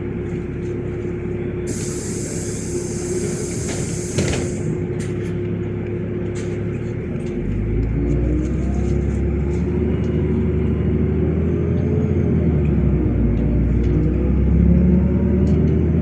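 Inside a LiAZ 5292.65 city bus: a burst of compressed-air hiss from the pneumatic system ends with a thump about four seconds in. Then the engine grows louder and a whine climbs in pitch as the bus pulls away.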